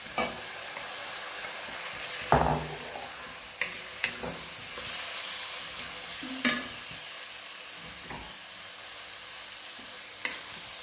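Raw chicken pieces sizzling in hot oil in a metal kadai, freshly added, while a wooden spatula stirs them and knocks against the pan several times, loudest about two seconds in.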